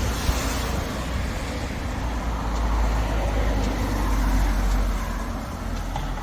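Road traffic: a vehicle passing along the street, a steady engine-and-tyre noise that swells towards the middle and eases off near the end.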